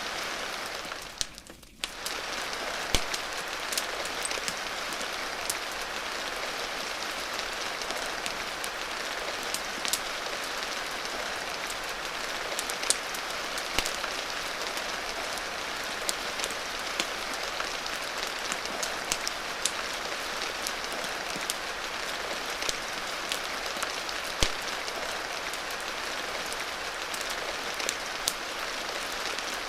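Steady rain hiss with scattered sharp clicks and pops, as of a crackling fireplace fire. The sound drops away briefly about a second in, then returns.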